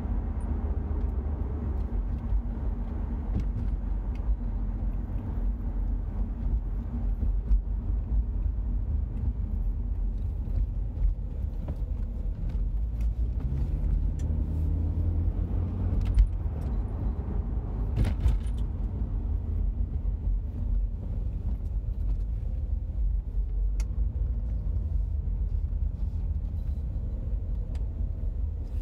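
Audi A4 B6's 1.8-litre turbocharged four-cylinder engine and road rumble heard from inside the cabin while driving. The engine pitch rises in the middle and wavers near the end, in a car whose rpm bounces between about 1,800 and 2,500 with a jerking motion under acceleration. A couple of light knocks come about two thirds of the way in.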